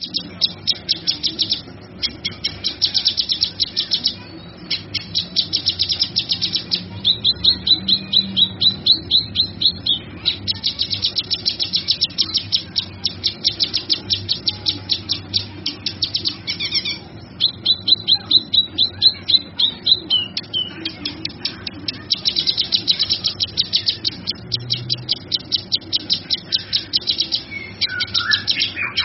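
Cucak kinoi singing: long bouts of fast, repeated high chirps, many notes a second, broken by short pauses, over a faint steady low hum.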